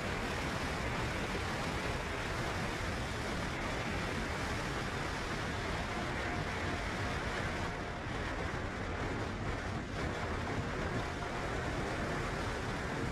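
Sea surf washing on a rocky shore, a steady rushing noise with wind.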